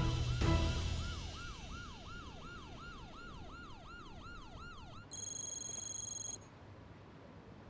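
Police siren in fast yelp mode, its pitch sweeping down about three times a second, while a low music swell fades out in the first second. The siren cuts off about five seconds in and a steady high electronic beep sounds for about a second.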